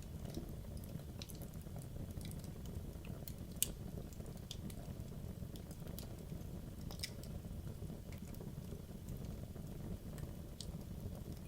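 Wood logs burning in a fireplace: a steady low rumble of flame with scattered crackles and pops, the sharpest pop about three and a half seconds in.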